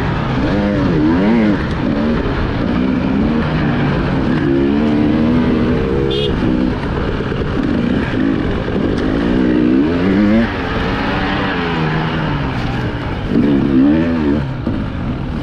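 Enduro motorcycle engine revving up and down over and over, its pitch rising and falling every second or so as the throttle is opened and closed, heard from the rider's own camera.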